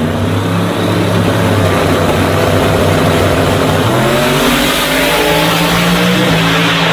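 Drag race cars at full throttle during a pass down the strip, a loud, continuous engine racket whose pitch drops about four seconds in and climbs again.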